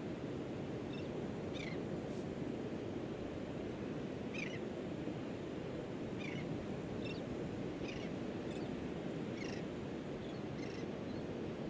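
Steady low rush of outdoor background noise, with short high bird chirps every second or so.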